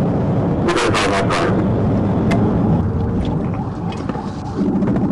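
Police patrol car's engine and road noise during a high-speed pursuit, with a few short hissing bursts about a second in. Near the end the level dips briefly, then the engine note picks up again.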